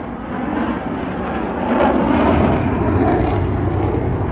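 An airplane engine running, a steady, loud, noisy drone.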